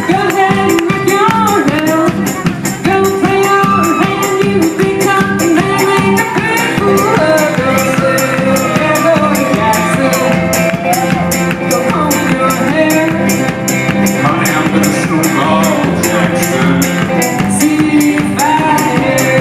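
Live folk band performing: a sung melody over sustained stringed-instrument notes, with a steady, rapid high jingling percussion beat.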